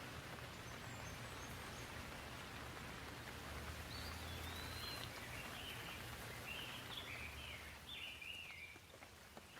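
Gentle, steady rain falling, an even hiss with a low rumble underneath. From about four seconds in until near the end, a bird sings short warbling phrases over the rain.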